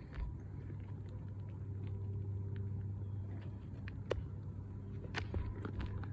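A low steady rumble, with scattered light clicks and taps over it.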